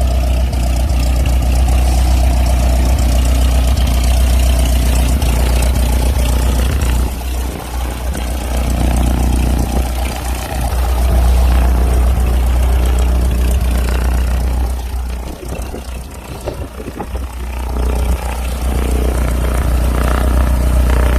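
Cessna 172S's four-cylinder Lycoming piston engine running steadily, heard from inside the cabin as a loud, deep drone that dips briefly twice.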